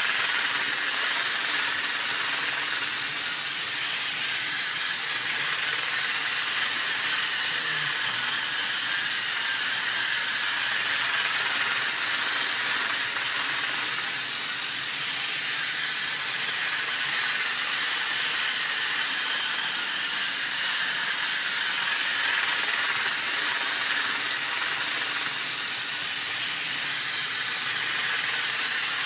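Toy Henry the Blue Engine train running laps around its track, a steady, even mechanical noise.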